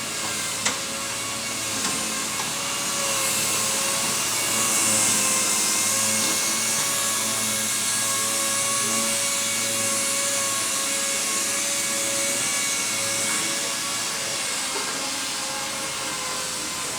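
An electric motor runs steadily with a high whine over a loud hiss, swelling slightly partway through, with one sharp click about a second in.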